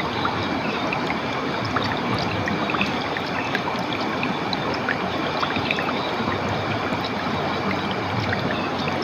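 Clear water flowing steadily in a stream, an even rushing with many small scattered plinks.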